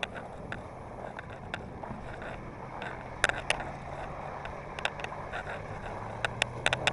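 Mini truck's small engine running steadily while driving, a low hum that grows a little stronger about halfway through, with scattered sharp clicks and rattles over it.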